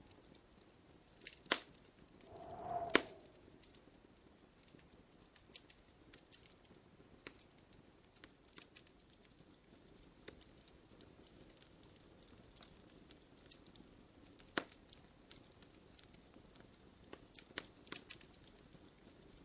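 Wood fire crackling in a fireplace, with irregular sharp pops throughout; the loudest pops come about one and a half and three seconds in. A short bird call is heard about three seconds in.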